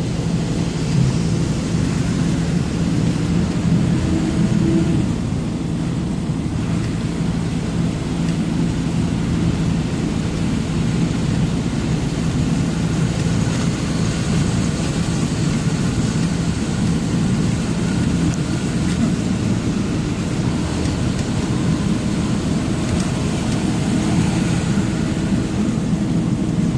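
Truck engine and road noise, a steady drone while driving.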